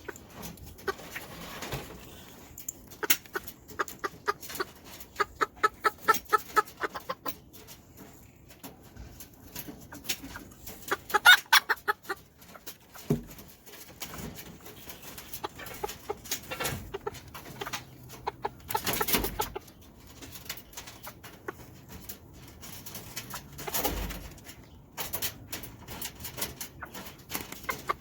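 Serama chickens clucking in runs of short, rapid clucks, with a louder call about eleven seconds in.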